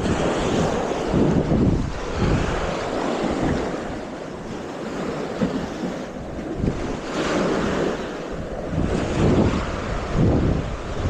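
Wind buffeting the microphone: a loud rushing noise that gusts up and down every second or two.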